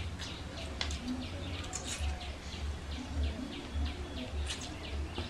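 Small birds chirping over and over in quick, high, downward-falling notes, with a low pulsing hum underneath and a few soft clicks of hand-eating.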